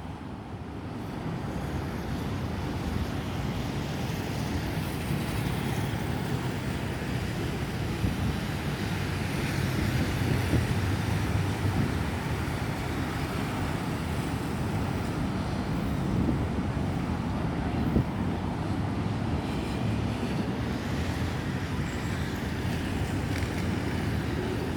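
Steady road traffic noise at an even level, with no single vehicle standing out.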